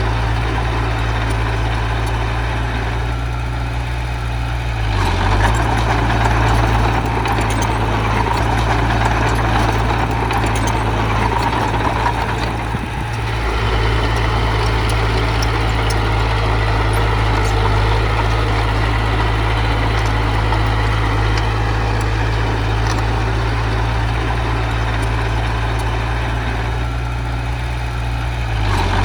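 Diesel engine of heavy earthmoving machinery running steadily under working load. The level dips briefly about four seconds in and again near the middle.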